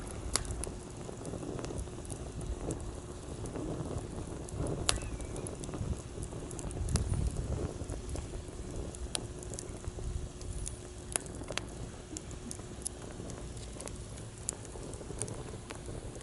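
Wood campfire in a fire-pit stand crackling and popping with irregular sharp snaps, over the low rush of sea waves that swells about seven seconds in. A faint steady hum sits underneath.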